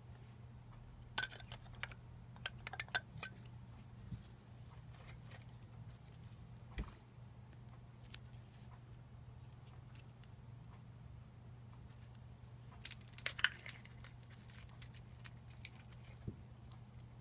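Scattered small clicks and taps from the parts of a replica lightsaber being handled during disassembly, in a cluster about a second in and another about two-thirds of the way through, over a steady low hum.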